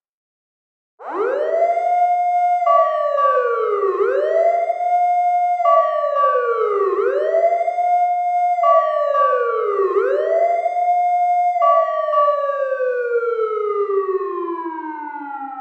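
Fire truck siren starting about a second in. It rises quickly, holds and falls in a wail that repeats about every three seconds, with a steadier higher tone over part of each cycle. Near the end it winds down in one long falling tone.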